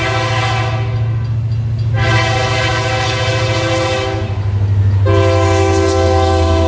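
Diesel locomotive's air horn sounding a chord in long blasts: one ends about a second in, another runs from about two to four seconds, and a third starts about five seconds in and is held. Under the horn is the steady low rumble of the locomotive's engine, which grows louder near the end.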